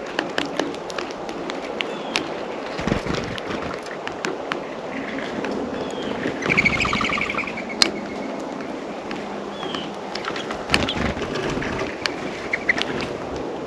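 Small birds at a feeder: irregular sharp ticks and taps of beaks and feet on the feeder and seed, a few short high chirps, and a quick chattering run of repeated notes about halfway through, over a steady low outdoor background noise.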